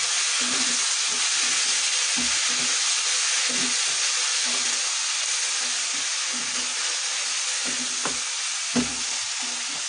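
Chopped green and red chillies sizzling in hot mustard oil in a non-stick kadhai while a spatula stirs them, its strokes scraping through the pan about once a second. Two sharp knocks near the end.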